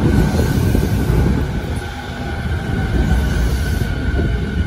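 Electric commuter train rolling slowly along the platform close by, its wheels rumbling on the rails, with a steady high whine over the rumble.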